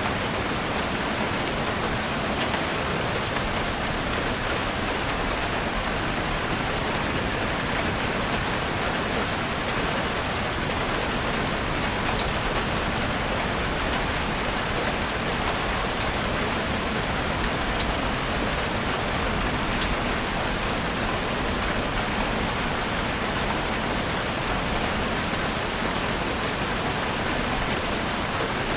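Heavy rain falling steadily on a roof, a dense even hiss with many fine drop patters.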